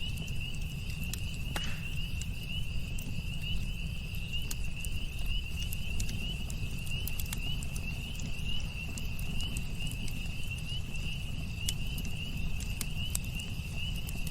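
Campfire crackling, with scattered sharp pops and a steady low rumble. An insect such as a cricket trills in one steady high-pitched pulsing note throughout.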